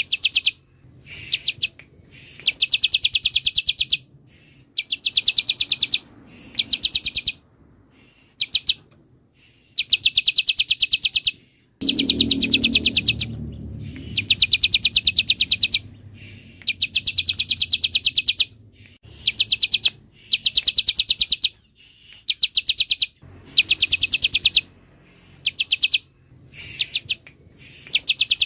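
Bar-winged prinia (ciblek) singing: repeated high, fast rattling trills of rapid notes, each lasting a second or two with short pauses between, a new burst every couple of seconds.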